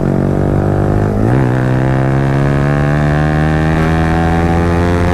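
Yamaha R15's 155 cc single-cylinder engine running loud through an aftermarket Akrapovic exhaust while riding at speed. The note is steady, with a brief wobble in pitch about a second in, then it climbs slowly.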